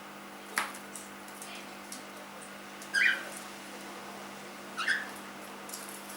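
A young cockatiel giving three short chirps: one near the start, the loudest about halfway, and one toward the end.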